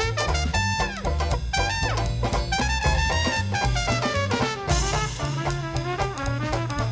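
Traditional New Orleans jazz band playing: trumpet and trombone lines with slides and bends over stepping bass notes and drums, with a cymbal crash about two-thirds of the way through.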